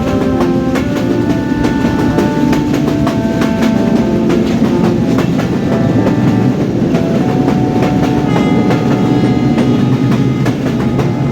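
Train running on rails: a steady loud rumble with wheels clattering over the rail joints. A run of short held notes at changing pitches sits over it.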